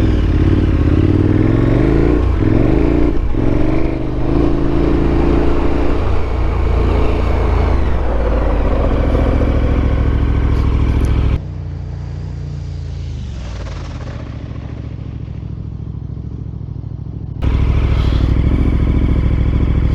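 KTM 1290 V-twin adventure motorcycle engine running while riding on a dirt road, its pitch rising and falling with the throttle. About eleven seconds in the sound cuts abruptly to a quieter, steadier engine note for about six seconds, then jumps back to the louder riding sound.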